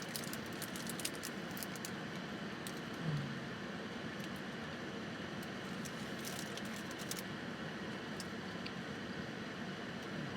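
Quiet eating sounds: scattered soft clicks and small rustles of chewing and handling food over a steady background hiss, with a brief low hum about three seconds in.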